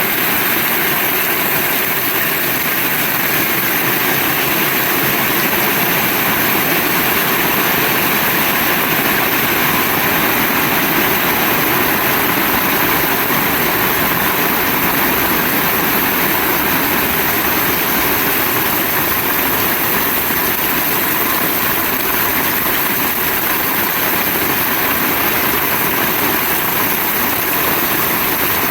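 Heavy rain falling steadily, a loud, even, unbroken hiss.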